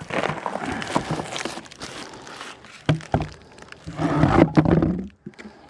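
A plastic beehive lid being worked open and lifted off, with scraping and rubbing, a few sharp clacks about three seconds in, and a louder rubbing grind about four seconds in.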